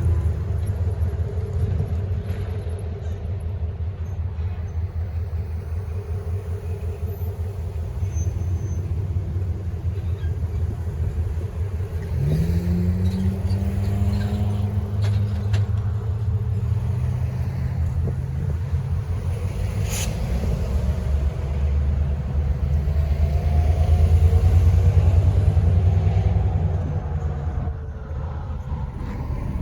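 Steady low engine rumble, with an engine revving up about twelve seconds in and the rumble growing louder around twenty-five seconds before easing off near the end.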